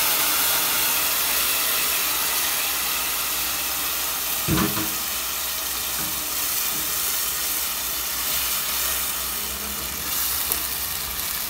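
Chopped vegetables sizzling in a hot pot, the hiss slowly easing as a wooden spoon stirs them. A single knock about halfway through.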